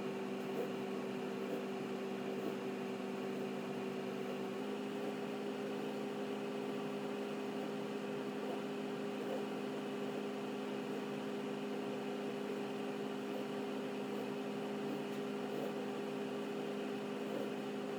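Steady electrical or motor hum, a few fixed tones over a faint hiss, stepping slightly up in pitch about four and a half seconds in.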